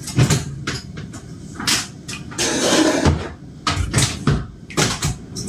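A series of irregular knocks and bangs, a dozen or so, with a short rushing noise about two and a half seconds in.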